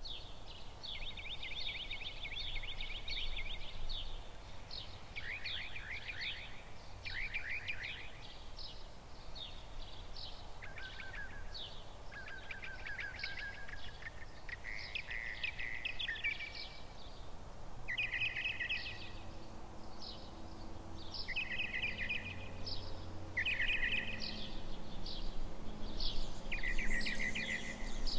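Birds singing: a steady run of short phrases of fast trilled notes, one after another with brief gaps, over a low rumble of background noise. A faint low hum joins about two-thirds of the way through.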